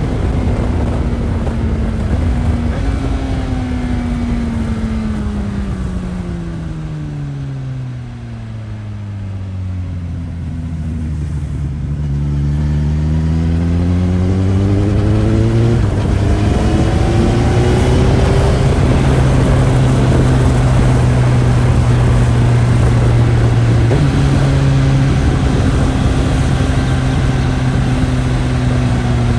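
2018 Suzuki GSX-S1000's inline-four engine on the original exhaust, heard while riding: the revs fall for about eight seconds as the bike slows, then build again and settle into a steady cruise, with a brief jump in pitch about three-quarters of the way through and the revs dropping again at the end. Wind noise runs under it.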